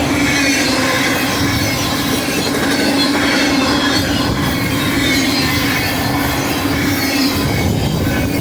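BNSF intermodal freight train passing at speed: a steady rolling rumble of wheels on rail, with a high whine running through it.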